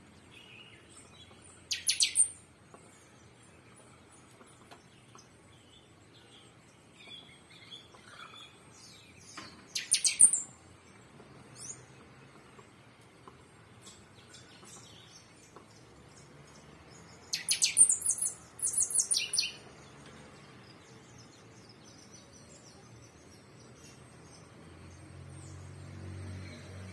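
Birds chirping in short bursts of rapid, high trills: three loud bursts, with a double one near the end, and scattered fainter chirps between them. A low rumble builds near the end.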